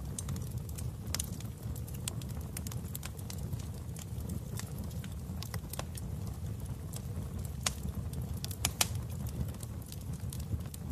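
Fireplace wood fire crackling: irregular sharp pops and snaps over a steady low roar of the flames, with a couple of louder pops near the end.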